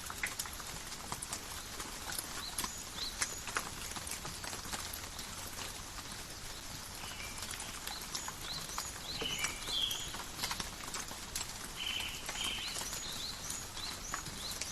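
Steady light rain in a forest, drops pattering and dripping on leaves in scattered sharp clicks. From about seven seconds in, brief high chirps come through several times.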